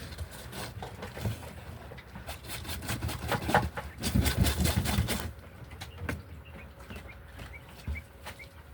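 Pet birds flapping their wings in a flurry of fast strokes from about two to five seconds in, with scattered light taps and rustles around it.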